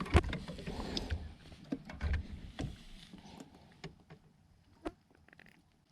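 Water splashing and knocks against a kayak as a hooked redfish is fought up beside it. It starts with a sharp knock and dies down after about three seconds into a few light clicks.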